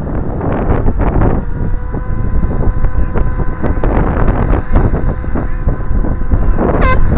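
Radio-controlled helicopters running, their motors and rotors making a steady whine of several pitched tones, under heavy wind noise on the microphone.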